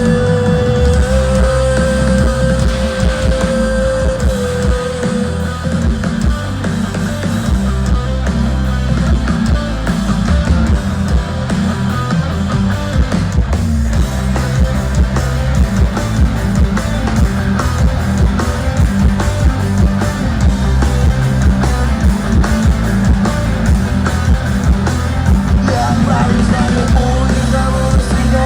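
Rock band playing live: electric guitars over bass and drums, with little or no singing. A long held note sounds over the band for the first few seconds.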